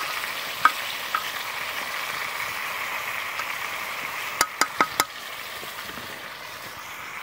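Rice and chicken gizzards frying in oil in aluminium camp pots, with a steady sizzle that eases after about five seconds. A metal spoon stirring the rice clinks against the pot a few times, four sharp clinks coming close together around four and a half to five seconds in.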